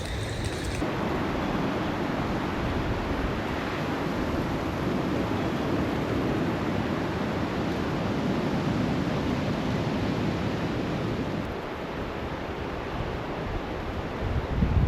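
Steady rain falling, an even rushing hiss. About twelve seconds in the sound shifts, and uneven low rumbles like wind on the microphone come near the end.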